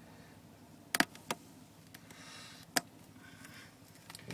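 Wooden bars of a top bar beehive knocking and clicking as they are handled: a sharp double click about a second in, a lighter one just after, and another near three seconds.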